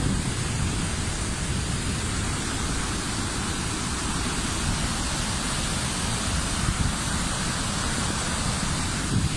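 Steady rushing roar of the Pailón del Diablo waterfall, with a deep rumble underneath.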